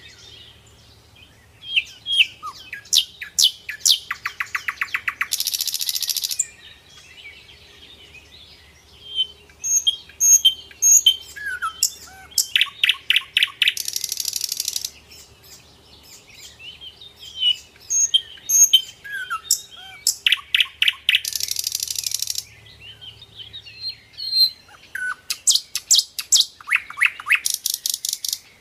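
Birds singing and calling: rapid trills, short chirps and harsh buzzy notes, the same run of phrases coming round about every eight seconds.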